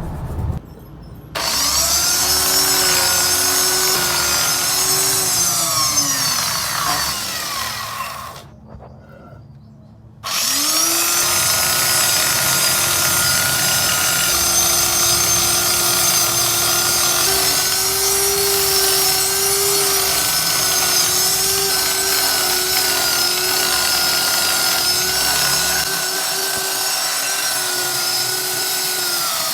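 An electric power tool whines as it runs. It starts about a second in, winds down and stops around eight seconds, then starts again about two seconds later and runs steadily, its pitch wavering slightly.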